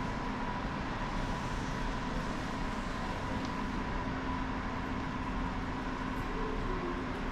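Steady running noise of a train, an even rumble with a faint steady hum through it.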